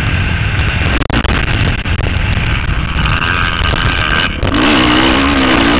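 Motocross bike engine running hard under heavy wind buffeting on a helmet-mounted microphone. From about four and a half seconds in, the engine note wavers quickly up and down as the throttle is worked.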